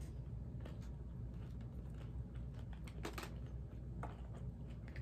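Close-up chewing of a crunchy fried taco shell with the mouth closed: small scattered crackles and clicks, with a brief louder crunch about three seconds in.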